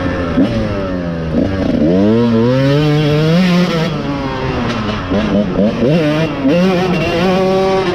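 Dirt bike engine revving: it climbs in pitch for about two seconds, drops, then rises and falls several more times in quick throttle bursts.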